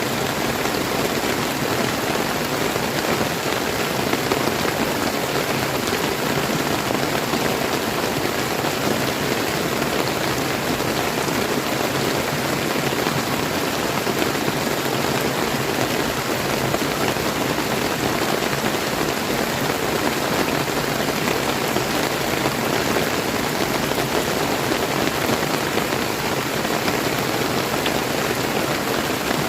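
Steady rain falling together with the rush of a flowing river: an even, unbroken hiss.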